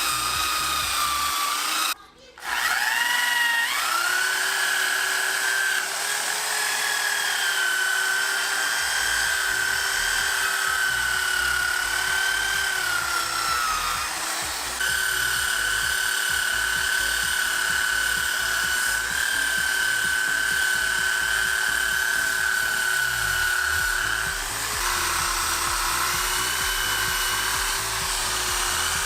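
Power drill spinning a steel wire brush to strip paint and loose rust from a metal frame, with a steady high motor whine that sags slightly as the brush bears on the metal. It stops briefly about two seconds in and winds back up.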